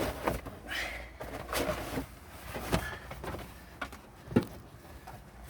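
Scattered knocks and clatter of materials and tools being handled during building work, with a few sharp knocks, the loudest about four and a half seconds in.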